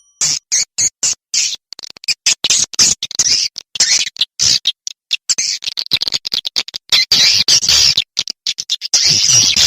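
Swiftlets chittering: rapid, high-pitched twittering calls in quick bursts with short breaks, the sound recording used to lure swiftlets into swiftlet houses.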